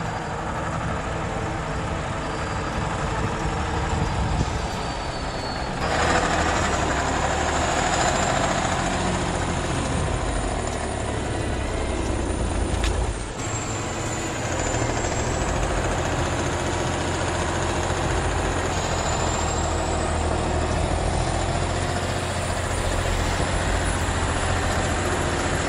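Heavy vehicle running, a dense mechanical noise with a low engine hum underneath. The sound changes abruptly about six seconds in and again around thirteen seconds in.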